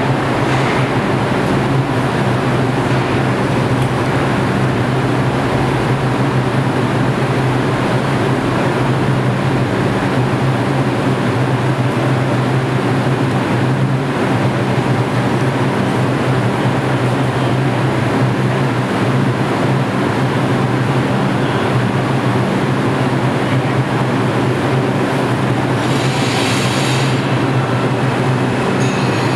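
New York City subway train of R142 cars in the station, a steady loud rumble and low hum with no let-up. A brief hiss comes near the end.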